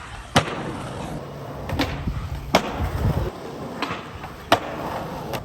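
Skateboard wheels rolling on hard ground with a steady rumble, broken by about five sharp clacks of the board and trucks hitting the ground.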